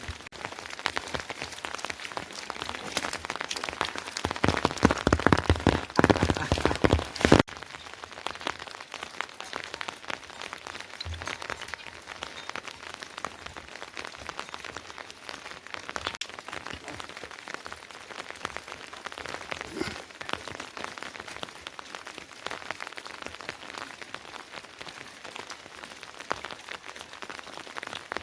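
Rain falling, a dense run of individual drop strikes. It is heavier for about the first seven seconds, then drops suddenly to lighter, steady rain.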